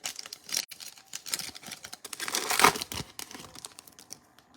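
Foil wrapper of a Donruss Optic trading-card pack crinkling and tearing as it is opened, a run of irregular crackles loudest a little past halfway.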